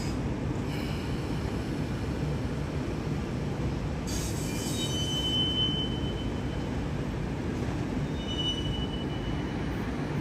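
Train running along the tracks with a steady low rumble, its wheels giving short high squeals about five seconds in and again near the end.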